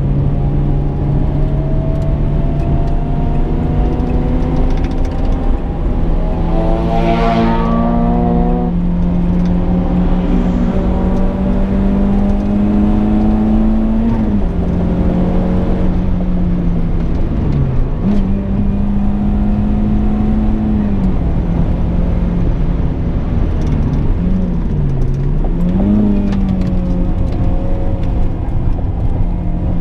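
Renault Clio 172's 2.0-litre four-cylinder engine heard from inside the cabin while being driven hard on a race track, running at high revs with road noise underneath. Its pitch dips and climbs back several times as the driver shifts gear and lifts off, and a brief sweeping rush comes about seven seconds in.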